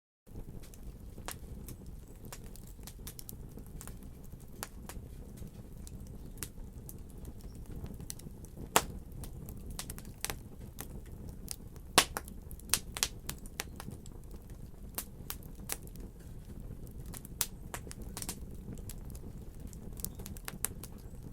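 Fire crackling in a fireplace: a steady low rumble of burning under irregular sharp pops and snaps, the loudest two about nine and twelve seconds in. The sound starts abruptly just after the beginning.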